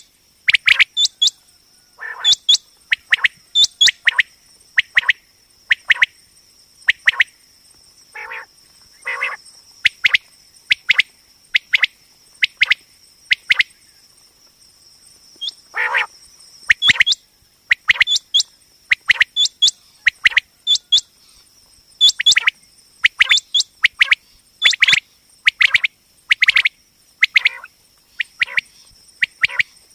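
Common quail calling: short, sharp notes repeated about once a second, sometimes in quick pairs, with a brief pause about halfway through.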